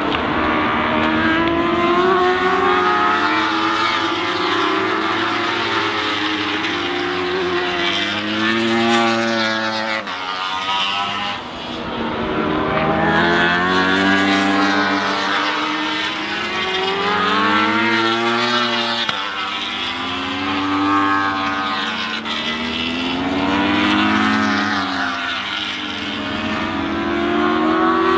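Ducati Panigale V4 R World Superbike engines at racing speed, their pitch repeatedly climbing under acceleration and dropping as the bikes pass and shift or brake. The sound changes abruptly about ten seconds in and again near nineteen seconds.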